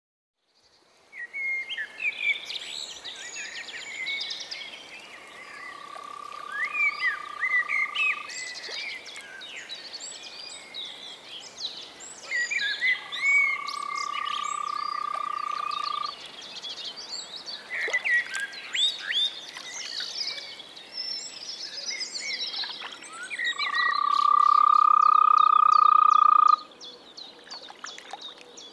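European green toad (Bufotes viridis) calling: three long, even calls of about three seconds each, the last one the loudest. Birds chirp steadily behind them.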